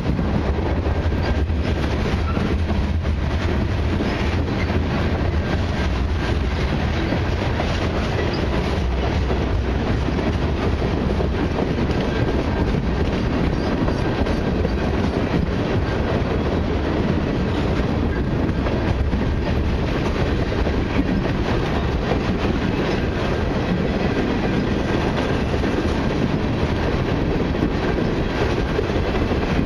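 Freight train cars, covered hoppers and tank cars, rolling past. A steady rumble of steel wheels on the rails, with a continuous clickety-clack of the wheel sets.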